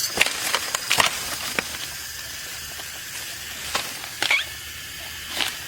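Bamboo shoots being snapped off by hand: a cluster of sharp cracks in the first second or so, then a few softer rustles and knocks later on.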